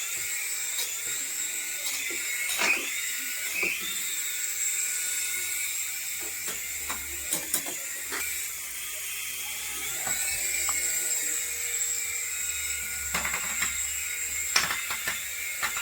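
Small electric motor of an RC toy whining steadily at a high pitch, with scattered clicks and rattles, several of them close together near the end.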